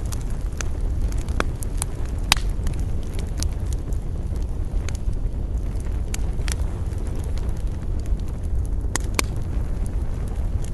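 Wood fire crackling with irregular sharp pops, the loudest about two seconds in and two close together near the end, over a steady low rumble of wind.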